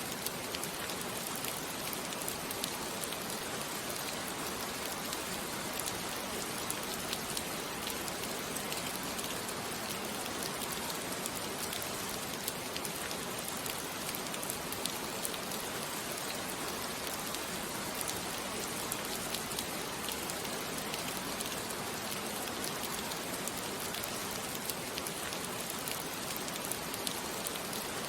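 Steady rain falling on a surface: an even hiss with small scattered drop ticks, unchanging throughout.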